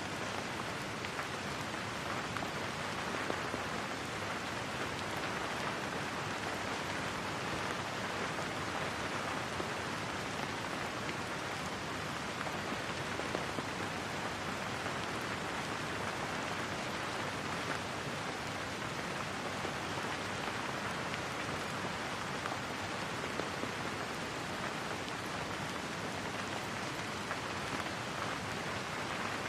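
Steady rain falling and pattering on a surface, an even hiss with no thunder or other events.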